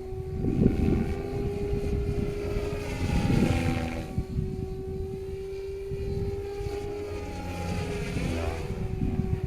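Goosky RS5 electric RC helicopter flying, its rotor and motor giving a steady hum that swells in passing whooshes a few times, with wind buffeting the microphone.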